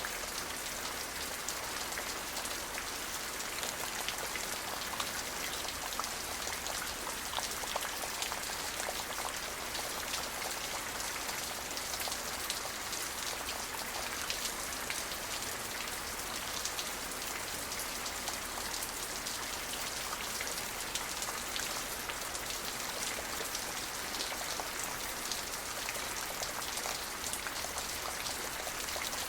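Steady rain falling, with many fine drops pattering on a surface, even throughout with no thunder.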